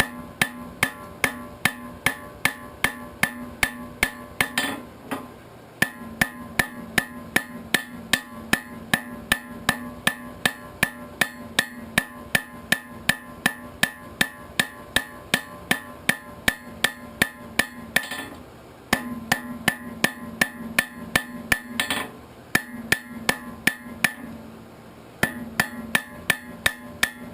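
Hand hammer striking hot steel on an anvil, about three blows a second in runs broken by short pauses, with the anvil ringing after each blow. The blows are spreading the back of an arrowhead out into a fan for its socket.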